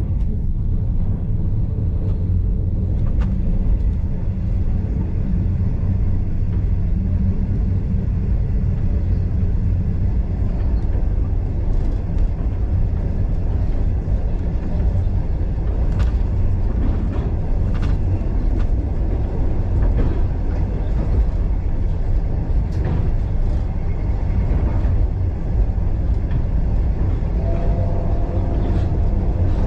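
Ride noise of a passenger carriage on a steam-hauled excursion train: a steady low rumble of wheels on rail, with scattered light clicks and knocks. A faint steady tone joins near the end.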